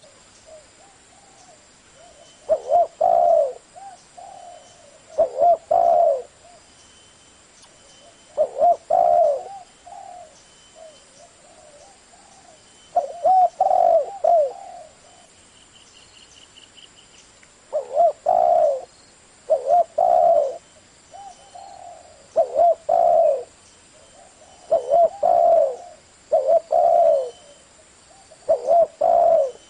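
Spotted dove cooing in the deep 'thổ' voice: short groups of low, mellow coos repeated every two to five seconds. This is the kind of call that is played to provoke wild doves into answering.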